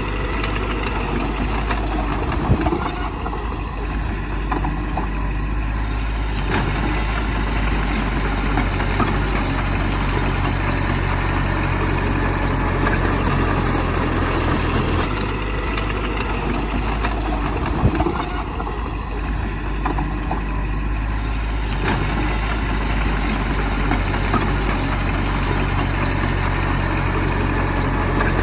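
Heavy diesel engine of earthmoving machinery running steadily, with two sharp knocks about fifteen seconds apart.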